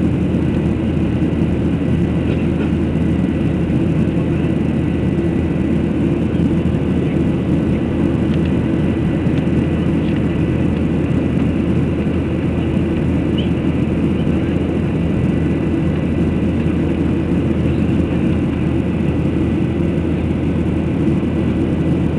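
Airplane engines giving a loud, even, steady drone with no rise or fall, with a faint thin whine held on top.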